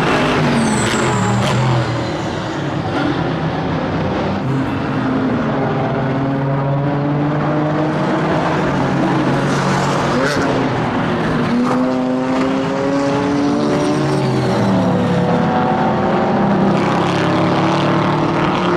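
Chevrolet Camaro GT4.R's V8 engine racing under hard acceleration, its pitch climbing and then dropping back sharply at gear changes several times.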